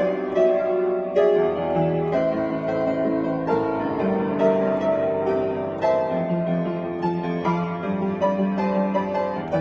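Solo piano playing a gentle melody over sustained lower chords.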